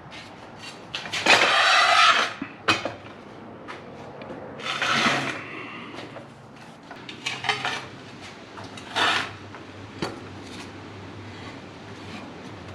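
Metal clanking and scraping in several separate bursts, with a few sharp knocks, as a 1996 Toyota Tacoma's manual transmission is worked loose and slid back off the engine and clutch.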